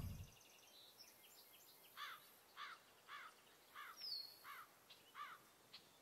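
A bird calling faintly, repeating one short rising-and-falling note about six times at an even pace, a little over half a second apart, with a few fainter, higher chirps around it.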